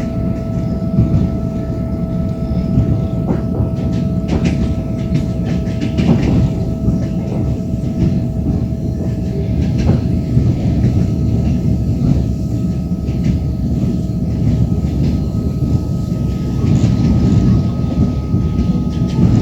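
Passenger train running along the line, heard from a carriage: a steady rolling rumble with a faint steady whine, and wheels knocking over rail joints every few seconds.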